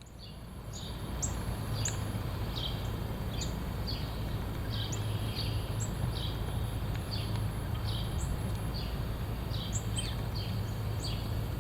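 Wind rumbling on the microphone, with a songbird repeating short, falling chirps about twice a second.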